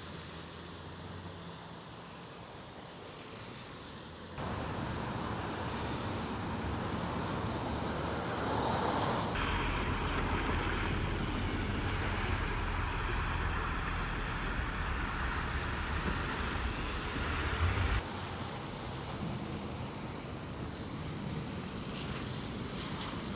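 Outdoor ambience of wind rumbling on the microphone and passing traffic, changing abruptly a few times as the footage cuts. It is loudest in the middle stretch.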